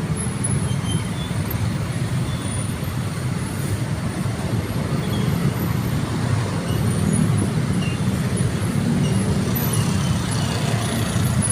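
Steady low rumble of road traffic and vehicle engines, with no clear single event standing out.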